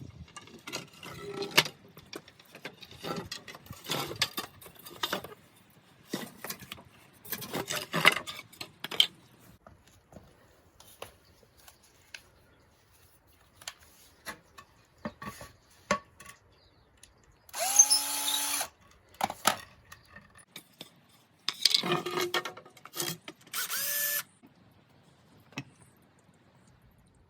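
A power drill runs in two short bursts, each rising in pitch as it spins up, with handling knocks and rubbing of wood and tools before them.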